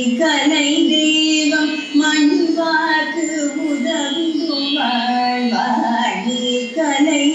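Singing of a Carnatic-style devotional song, a high voice holding long notes over steady instrumental accompaniment.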